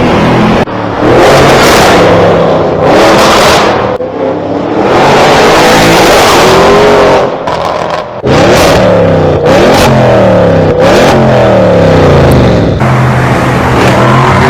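Audi RS6 engine revving and accelerating hard, its pitch climbing and falling again and again. It breaks off abruptly a few times and starts again.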